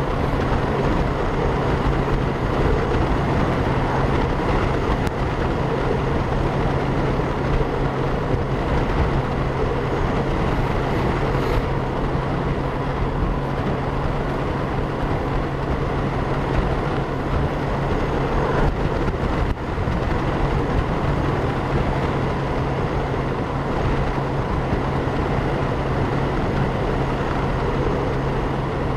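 Motorcycle riding noise at a steady speed: wind rushing over a helmet-mounted camera microphone with the steady hum of a 2012 Honda Gold Wing's flat-six engine underneath.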